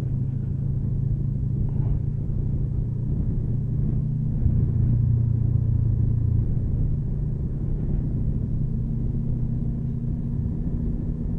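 Motorcycle engine running steadily while riding, a constant low drone that swells a little about halfway through.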